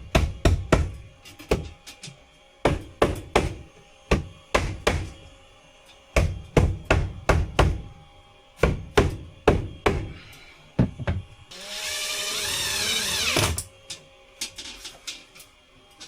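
Runs of quick hammer blows on wood, about three or four a second, as wooden ceiling panels are fixed in place. About three-quarters in, a power tool runs for about two seconds with a wavering pitch, followed by a few lighter taps.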